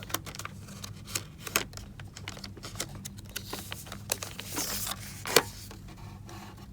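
Household handling sounds: a run of light clicks and knocks at an uneven pace, a short rustle a little before the loudest knock about five seconds in, over a steady low hum.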